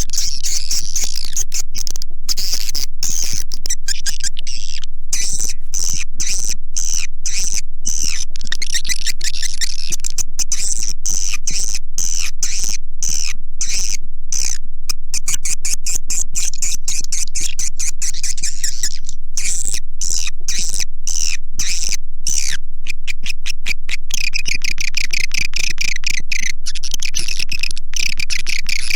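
Recorded calls of edible-nest swiftlets: a dense, high-pitched chattering twitter of many birds, laced with rapid clicks, going on without a break. It is the kind of lure call played to draw swiftlets into a nesting house.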